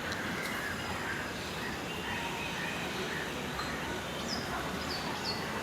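Small birds giving short, high chirps that slide down in pitch, a few in quick succession about four to five seconds in, over a steady outdoor background hiss.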